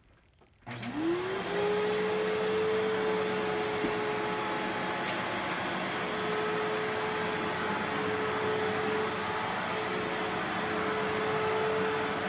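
2001 Fantom Fury Limited Edition vacuum cleaner switched on about a second in: the motor winds up in pitch over about a second, then runs steadily with a constant hum and airflow rush.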